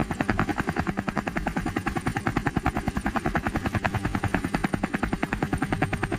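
Helicopter rotor blades chopping in a fast, steady rhythm, hovering overhead.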